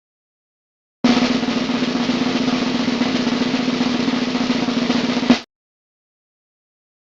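Snare drum roll lasting about four seconds, ending in one louder hit and stopping abruptly.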